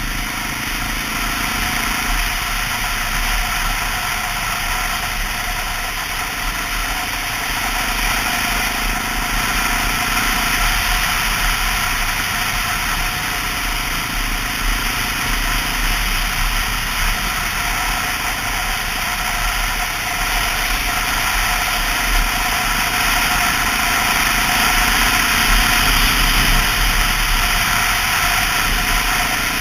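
2002 Honda XR650L's single-cylinder four-stroke engine running steadily while being ridden, with wind and road rush over it. The engine note steps to a new pitch a few times, as with changes in throttle or gear.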